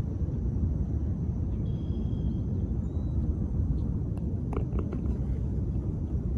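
Steady low rumble of outdoor background noise, with a faint high chirp about two seconds in and a few light ticks around four to five seconds in.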